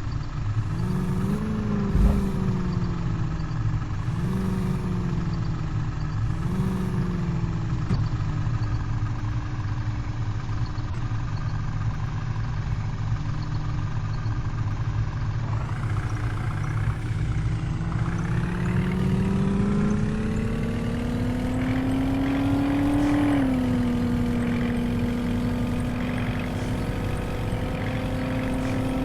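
Truck engine running, revved briefly three times in the first several seconds, then idling steadily; about two-thirds of the way in, its speed climbs gradually over several seconds and holds at a higher, steady speed.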